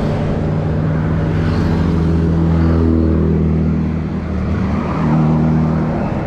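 Motor vehicle engine running close by, a steady low hum whose pitch rises a little around the middle, eases off about four seconds in, and comes back strongly about a second later.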